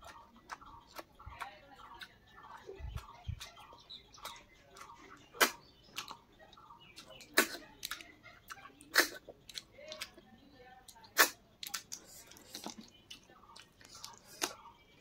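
Close-miked chewing and mouth sounds of a person eating, with several sharp, loud smacks or clicks standing out among softer ticks.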